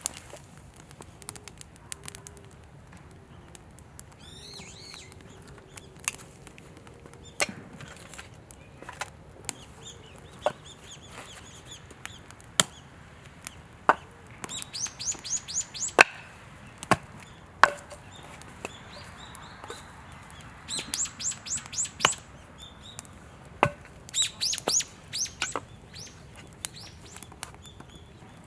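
Wood fire crackling with sharp, irregular pops. A small bird sings quick runs of high, falling notes three times in the middle and near the end.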